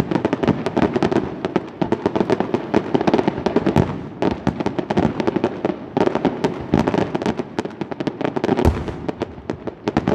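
Aerial fireworks bursting overhead: a dense, continuous crackle of many rapid cracks and pops, with one heavier boom about three-quarters of the way through.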